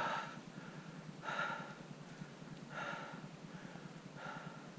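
A person breathing hard and audibly, with four breaths spaced about one and a half seconds apart.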